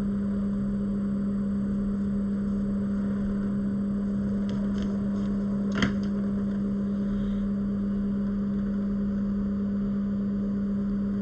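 A steady low electrical hum runs unchanged, with a few faint ticks and one sharper click about six seconds in.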